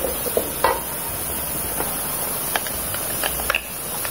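Ground chili and spice paste sizzling as it fries in hot oil in a wok, with a metal slotted spoon scraping through it and clicking now and then against the metal.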